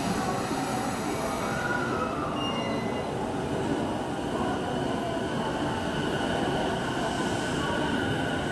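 E233-series electric commuter train starting to pull away from a station platform, with a steady rumble of running noise and a thin high whine held over it.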